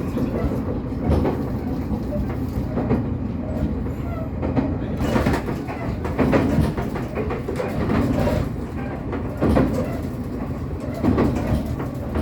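Train running on the track: a steady rumble with wheels clicking over rail joints at irregular intervals.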